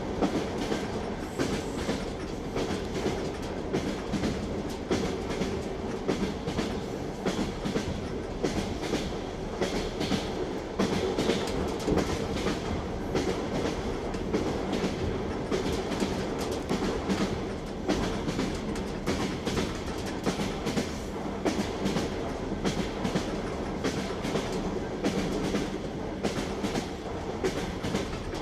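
Train wheels clacking over rail joints as the train runs, with a steady rumble and a continuous irregular clatter of clicks and knocks.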